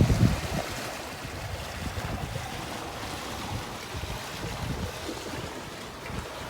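Wind buffeting the microphone and water rushing past a sailing yacht. The heavy low gusts ease about half a second in, leaving a steady rush of wind and water.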